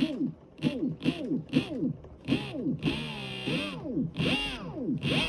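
Electric minibike motor whining through a quick series of throttle blips, its pitch rising and falling with each one, with one longer held rev about three seconds in.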